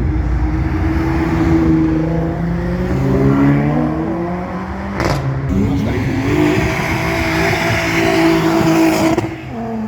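Car engines revving and running, the pitch climbing and falling as the throttle is blipped, with a sudden change about halfway through and again near the end.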